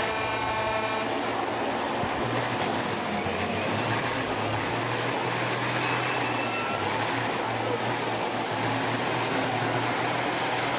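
Semi-truck diesel engines running under a steady wash of noise as the trucks race down the drag strip, with a low engine hum that comes and goes.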